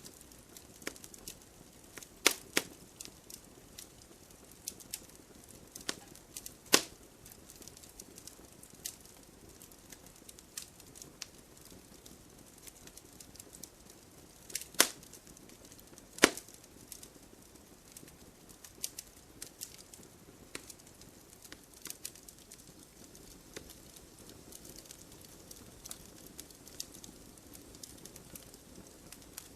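Burning firewood crackling: irregular sharp pops and snaps over a faint steady hiss, the loudest pops about 2, 7, 15 and 16 seconds in.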